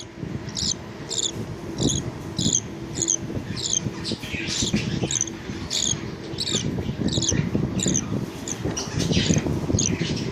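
Budgerigars chirping in short, high, repeated calls, about two a second, over a low rustling noise.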